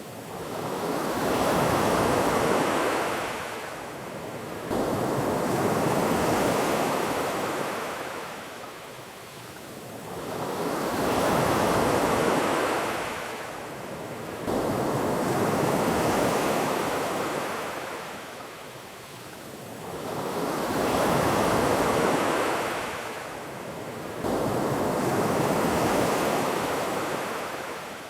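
Ocean surf washing onto a beach in slow, even swells, each rise and fall lasting about five seconds.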